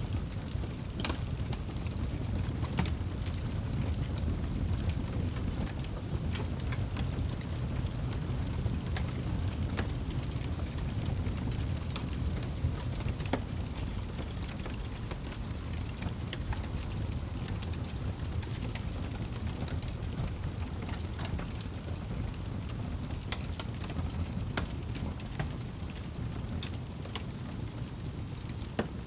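Wood fire burning in a fireplace: a steady low rumble with scattered sharp crackles and pops at irregular moments.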